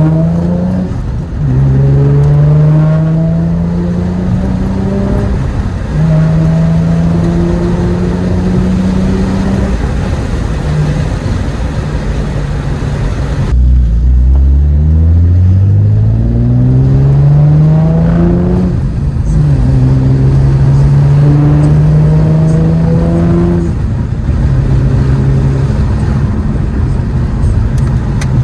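Infiniti G35's 3.5-litre VQ V6 with a Motordyne TDX-2 Shockwave cat-back exhaust, accelerating hard through the gears. The exhaust note climbs in pitch and drops back at each upshift, several times over. About halfway through it breaks off and climbs again from low revs.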